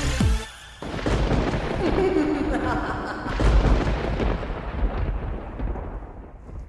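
A long roll of thunder that starts about a second in, swells, and then slowly rumbles away. A song cuts off just before it.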